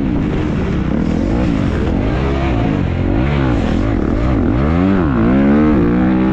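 Motocross dirt bike engine under race riding, its pitch rising and falling again and again as the throttle opens and closes.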